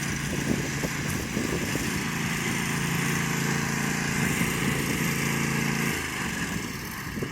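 Craftsman T700 lawn tractor engine running steadily as the tractor drives, fading somewhat near the end.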